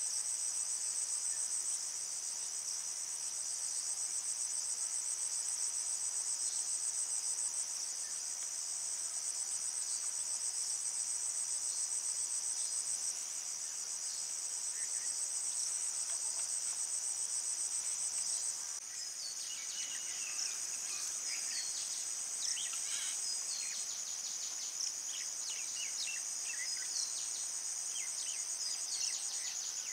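A chorus of crickets trilling steadily at a high pitch. About two-thirds of the way in, many short, quick chirps join in over the trilling.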